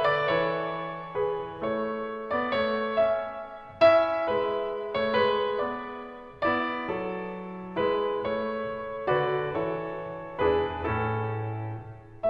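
Background piano music: chords struck about once a second, each note fading after it is struck.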